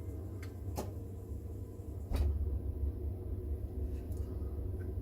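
A few sharp clicks and taps of small tools and parts being handled while working a pin in the radio's headphone socket, the two loudest a little under a second in and just after two seconds in, over a steady low hum.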